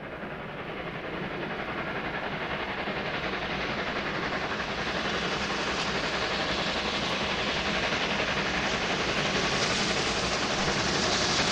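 A train approaching, its running noise growing steadily louder and brighter.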